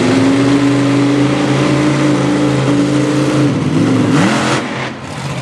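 Monster truck engine revving hard, held at high revs for about three and a half seconds, then dropping off and blipping up again near the end.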